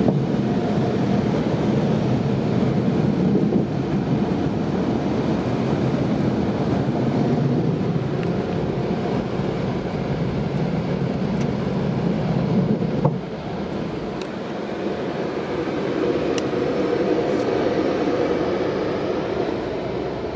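Automatic car wash dryer blowers heard from inside the car, a loud steady rush of air against the body. The sound drops suddenly about two-thirds of the way through to a quieter, steadier hum.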